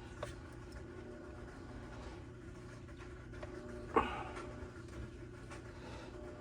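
Faint clicks from small trimmer parts being handled during repair work, with one sharp knock about four seconds in, over a steady background hum.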